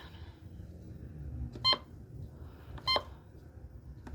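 Weather alert radio beeping: short, high, identical beeps about 1.3 seconds apart, three in all. The radio is holding an active high wind warning alert.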